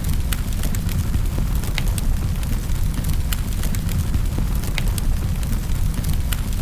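Wood fire crackling in a fireplace: a steady low rumble of burning with irregular sharp crackles, a few each second.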